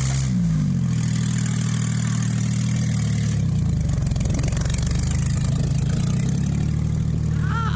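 Truck engine easing off: its pitch drops just after the start, then it runs at a steady low speed, the note shifting again about three and a half seconds in.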